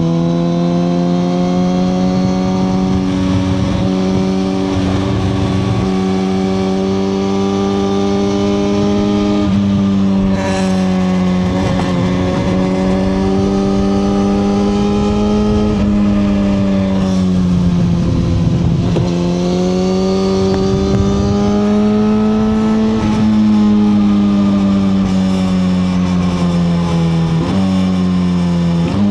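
2021 Suzuki GSX-R1000R's inline-four engine running under way at a steady cruise. Its note rises and falls gently, dropping in pitch a few times.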